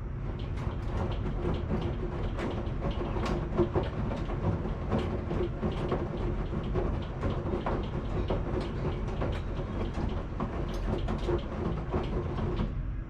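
Washing machine running, its drum turning with a steady low rumble and hum and many irregular clicks and knocks.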